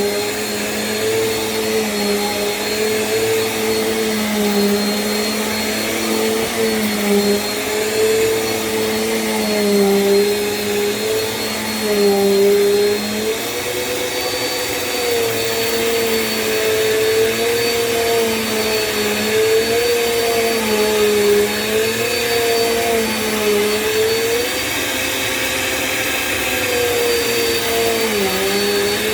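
Small Bissell vacuum cleaner running on a rug: a continuous motor hum that wavers slightly up and down in pitch, with a steady high whine above it.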